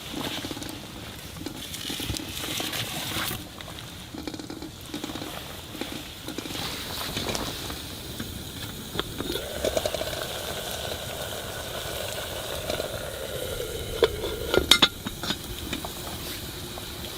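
Food sizzling in a pan, with a utensil stirring and scraping against it and a few sharp metal clinks about three-quarters of the way through.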